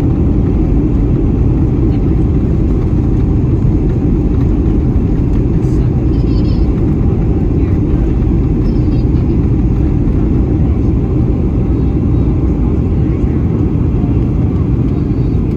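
Cabin noise inside a Boeing 737-800 airliner: a steady low rumble of the engines and rushing air, loud and unchanging.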